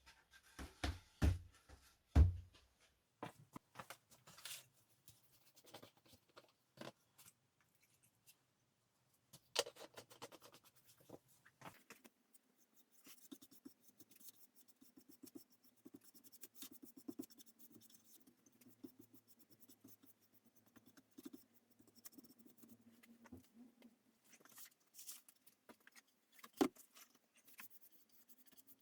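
Quiet hand-work on wood and metal: a few knocks in the first couple of seconds, then light scratching and scraping with small clicks, and one sharp knock near the end.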